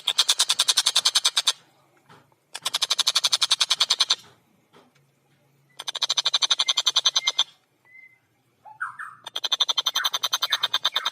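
Tengkek buto kingfisher calling in repeated rapid, harsh rattling bursts, each about one and a half to two seconds long with short pauses between; a short single note comes just before the last rattle, which starts about nine seconds in.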